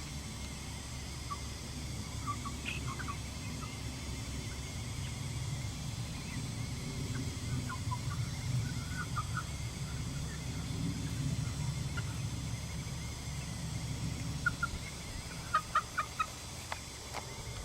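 Free-ranging Icelandic chickens clucking softly, with short scattered calls and a quick run of several calls near the end.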